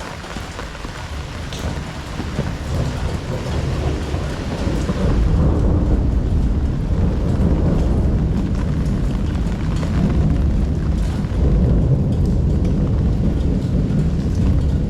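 Heavy rain pouring steadily, with a long, deep rumble of thunder that builds a few seconds in and rolls on through the rest.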